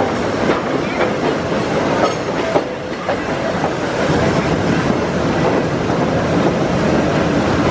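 A 1903 BU elevated subway car running: steady rumble and rattle of steel wheels on the rails, with scattered clicks over the rail joints and one sharper knock a little before halfway.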